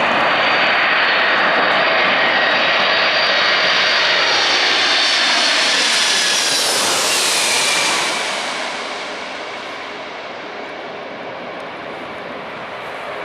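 Four-engined Boeing 747 jet coming in to land, its engines' roar and high fan whine loud as it passes by, the whine sliding slightly down in pitch. About eight seconds in the sound fades as the airliner moves away.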